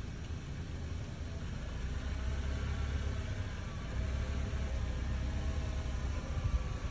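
A vehicle engine running steadily with a low rumble. Faint wavering tones join it from about two seconds in.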